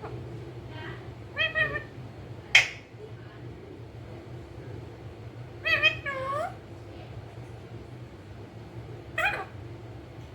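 Pet parrot giving short, pitched calls in four bouts a few seconds apart; the sharpest and loudest comes about two and a half seconds in. A steady low hum runs underneath.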